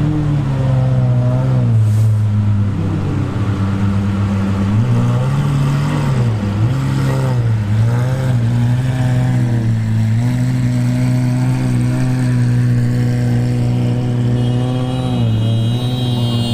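Sports car engine running loud, its pitch rising and falling with the revs several times, then holding steadier.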